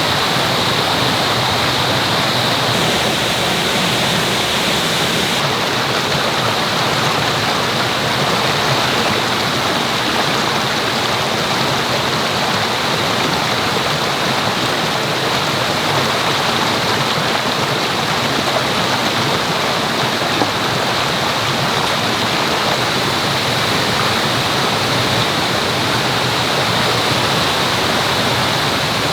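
Mountain stream rushing steadily over rocks, a continuous even water noise.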